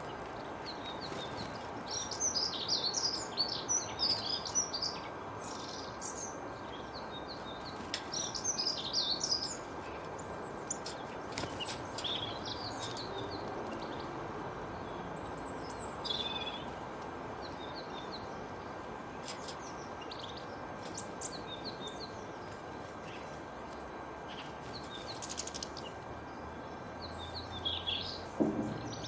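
Birds chirping and singing in repeated bursts of quick high notes, over a steady background hiss with a faint thin steady tone underneath.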